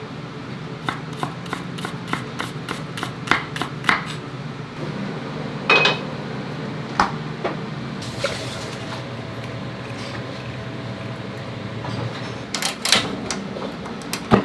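Metal cookware and utensils knocking and clinking: a run of light knocks, a louder ringing clank about six seconds in, and another cluster near the end, over a steady low hum.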